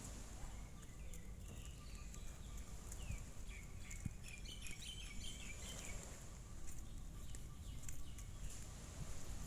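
Small birds chirping in quick, high twittering phrases during the first several seconds, over a steady low outdoor rumble.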